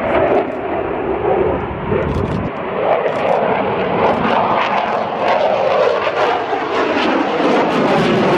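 Fixed-wing aircraft engine noise, loud and steady, with a few slight swells as the aircraft flies past.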